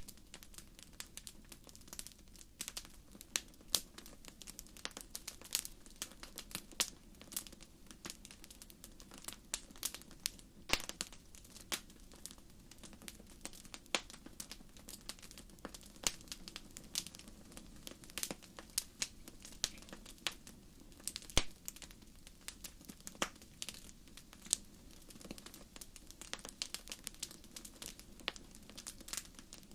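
Wood fire in a fireplace crackling: irregular sharp pops and snaps, a few much louder than the rest, over a soft steady hiss of the burning.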